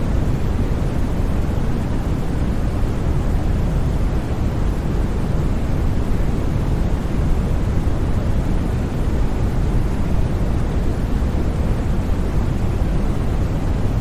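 Steady, unchanging white noise for sleep, a constant hiss with more weight in the low end than in the treble.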